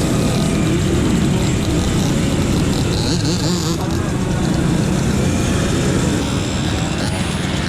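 Two-stroke moped engine running while riding, its pitch wavering a little.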